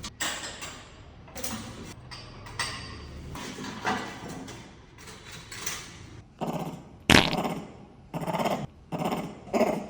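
Pet monkey making a run of short calls, several in the second half, to ask for a diaper change. There is also handling noise and a sharp knock about seven seconds in.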